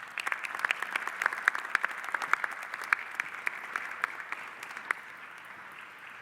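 Audience applauding, with many separate claps standing out; it fades near the end.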